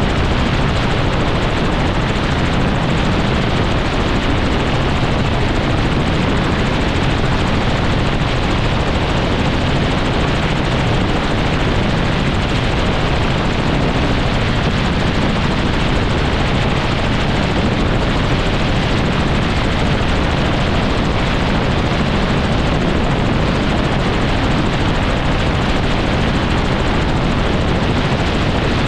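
Helicopter engine and rotor noise, loud and steady throughout, with no change in pitch or level.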